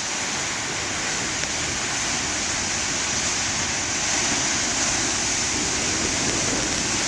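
Ocean surf breaking and washing ashore, a steady roar of water that swells a little about halfway through.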